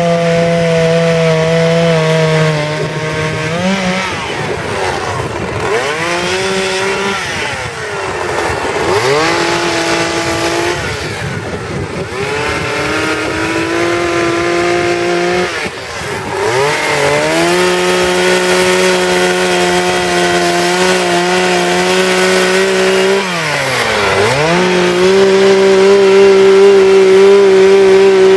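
Two-stroke chainsaw running at high revs while carving wood, its pitch dropping and recovering about four times as it eases off and bites into the cut.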